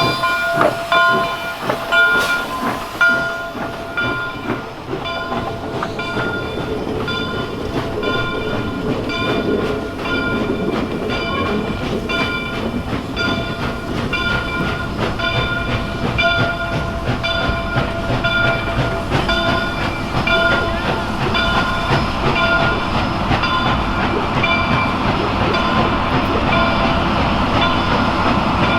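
Steam locomotive's bell ringing in a steady rhythm, a little faster than once a second, over the rumble and clatter of the moving train, which grows louder toward the end. A few sharp knocks come in the first three seconds.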